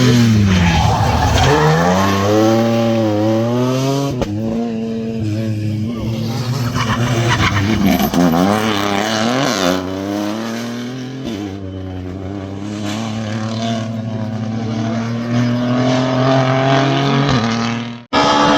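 Rally car engine at full effort on a stage, its revs rising and falling again and again through gear changes and lifts off the throttle, then pulling a steadier, slowly climbing note; the sound cuts off abruptly near the end.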